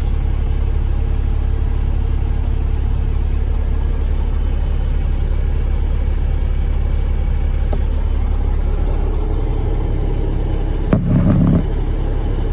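Cummins ISX inline-six diesel in a Kenworth T800 idling steadily, with a short louder rumble near the end.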